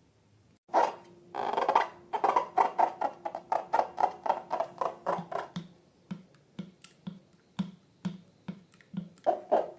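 Slime being squeezed and worked by hand: a quick run of short wet squishing clicks, about five a second, then sparser sharp pops and clicks near the end.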